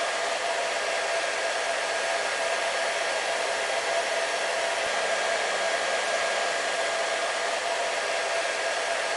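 Hair dryer running steadily: an even rush of blown air with a faint steady whine from the motor.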